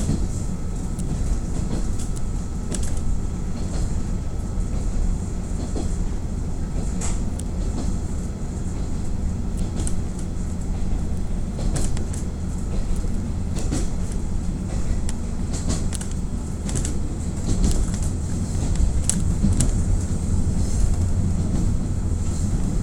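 KiHa 48 diesel railcar running under way, heard from inside the car: a steady low engine drone with the wheels clicking over rail joints now and then.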